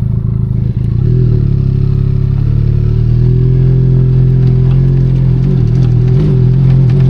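Benelli Leoncino 500 Trail's parallel-twin engine under way off road: it runs choppy at low revs, picks up about a second in, holds steady, then revs rise and fall near the end.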